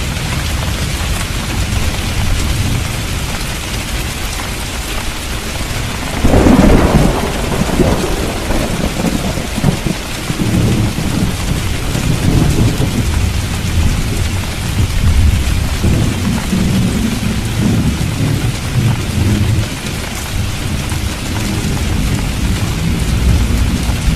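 Steady heavy rain with a thunderclap about six seconds in, followed by long rolling thunder rumbling low under the rain.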